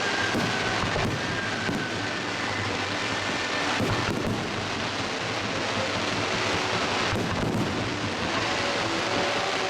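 Fireworks display: a continuous rumble of aerial shell bursts, with clusters of sharper cracks about four seconds in and again around seven seconds in.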